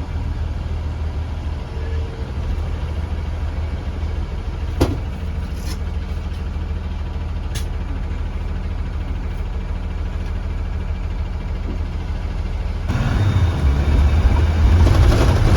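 A 2015 Blue Bird Vision school bus's engine running with a steady low rumble, heard from inside the bus, with a couple of short sharp clicks around the middle. About thirteen seconds in it grows louder and broader as the bus works harder.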